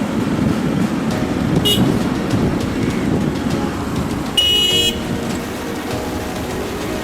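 City road traffic heard from a moving motorbike, with a steady rumble. A short horn beep comes about a second and a half in, and a louder half-second horn honk comes near the middle.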